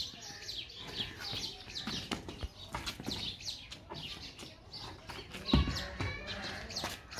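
Birds chirping over and over in short, quick calls, with two dull thumps close together about five and a half seconds in.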